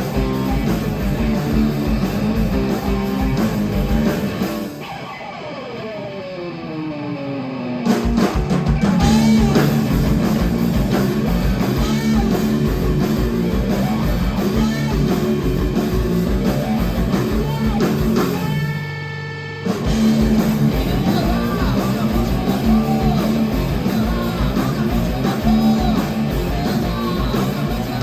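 Live rock band playing an instrumental passage: distorted electric guitars, bass and drum kit. About five seconds in, the band drops out and a sliding pitch is heard for a few seconds before the full band comes back in. Near the middle, a single held note sounds for about a second before the band returns.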